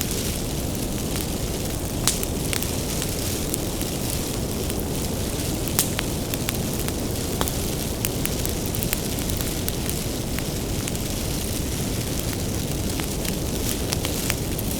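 Wood fire burning, with a steady low rumble and frequent sharp crackles and pops from the firewood; two louder pops come about two and six seconds in.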